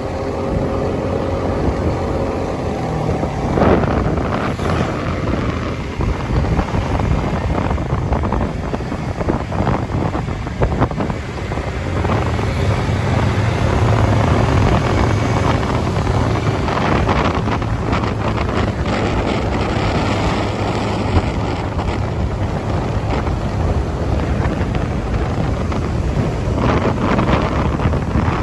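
Wind buffeting the microphone on a moving motorcycle, with the engine running underneath; the engine's low hum grows stronger about twelve seconds in.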